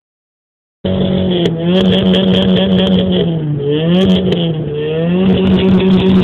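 Lada Priora's four-cylinder engine revving through a tuned dual exhaust, starting about a second in. The revs are held high, drop twice and climb back each time.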